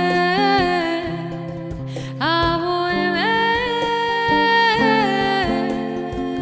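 An acoustic pop song played live. A female voice holds long wordless sung notes that slide up into new pitches twice, over acoustic guitar and light hand percussion.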